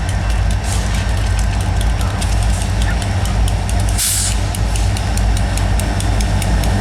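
EMD SD40T-2 and SD40-2 diesel locomotives running slowly, their two-stroke 16-cylinder 645 engines giving a steady deep drone, with a short hiss of air about four seconds in.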